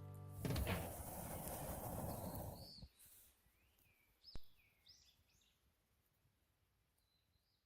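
A rush of noise for about two seconds, then a few faint bird chirps and a single sharp click, fading toward quiet.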